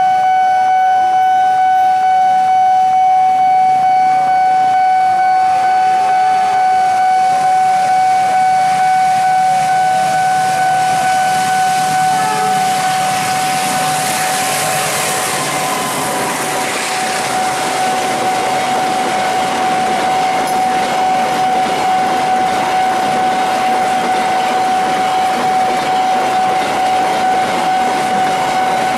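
Level-crossing warning alarm sounding a steady high tone throughout, over a KAI diesel locomotive hauling a container freight train past. The rumble and rail noise swell about halfway through as the locomotive goes by, and the rolling of the container wagons carries on after it.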